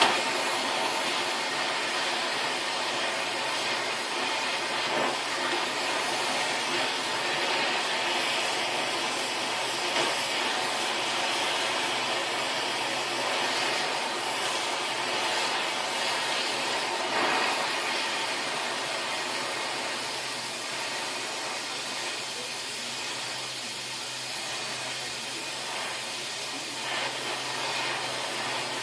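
Gas torch burning with a steady hiss, heating a seized vise mounting bolt to free it; it gets a little quieter about two-thirds of the way through.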